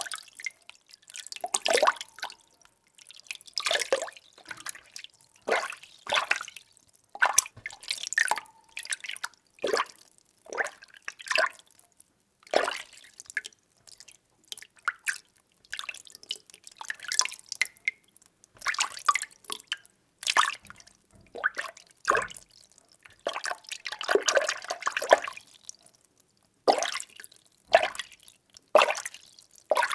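Water being stirred by hand: short, irregular sloshes and swishes about once or twice a second, with near-silent gaps between them.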